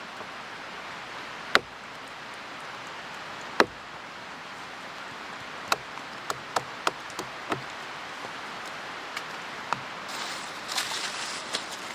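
Firewood being chopped: three sharp, loud chops about two seconds apart, then a run of lighter taps and knocks, and some rustling near the end, over the steady rush of a mountain stream.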